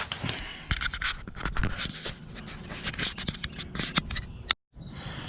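Irregular scraping and rubbing with many sharp clicks, as of things being handled, cut off abruptly near the end.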